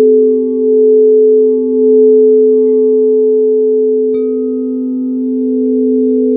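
Singing bowls sounding: two low tones held steady and gently wavering, then a higher bowl struck about four seconds in, ringing on at a higher pitch over them.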